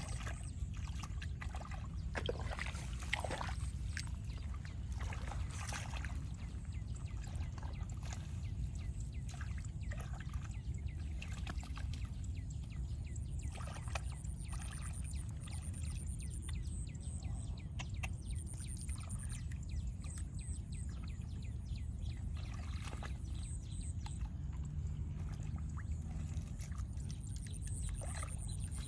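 Water splashing and trickling in short irregular bursts over a steady low rumble.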